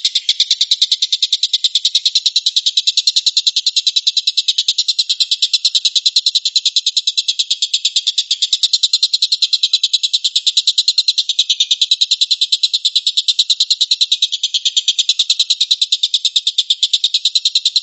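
A songbird's high-pitched, rapid pulsed trill, repeated without a break in an even rhythm of many pulses a second, as in a birdsong recording used to tutor caged songbirds.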